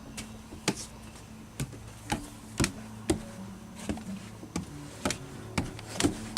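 Room air conditioner's refrigeration unit running with a steady low hum, overlaid by sharp irregular ticks and knocks roughly every half second.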